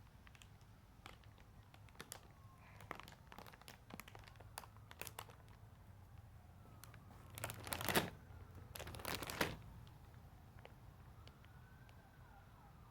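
Packaging of a self-heating meal crinkling as it is handled: scattered small crackles, then two louder crinkling rustles about eight and nine seconds in.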